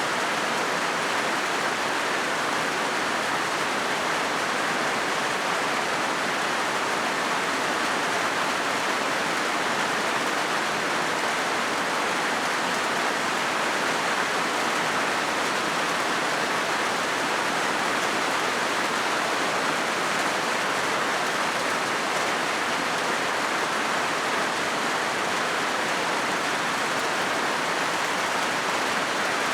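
Steady rain falling on a corrugated zinc roof: a dense, even hiss with no let-up.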